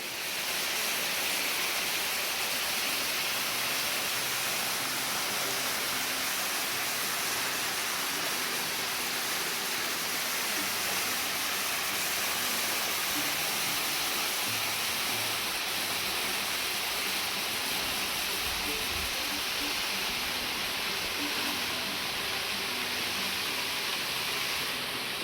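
A small waterfall with little water in it, falling and splashing steadily.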